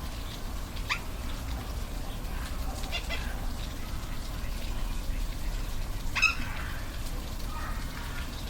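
Steady rush of a waterfall, with a few short, high animal calls over it; the loudest call comes about six seconds in.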